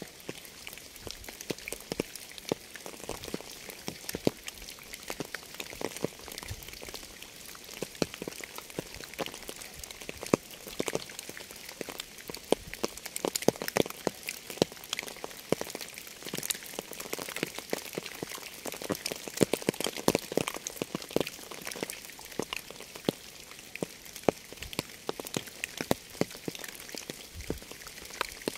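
Steady rain: an even hiss with a constant scatter of sharp, close individual raindrop hits.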